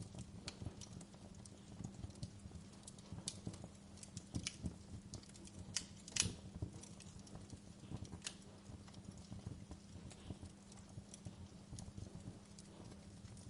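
Wood fire crackling: irregular sharp pops and snaps over a low steady hum, the loudest pop about six seconds in.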